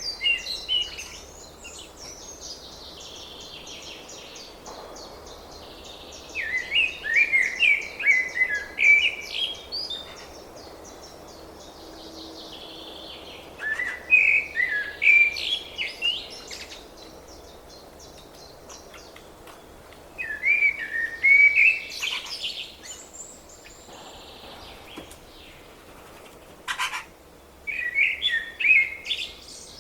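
A songbird singing short phrases of quick, wavering whistled notes, four times, each about two to three seconds long and spaced several seconds apart, over a steady background hiss. One sharp click sounds near the end.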